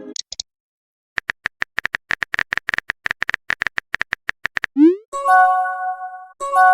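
Smartphone keyboard typing clicks in a rapid even run, then a short rising pop as a message is sent. A chord-like notification tone follows, held for about a second, and sounds again near the end.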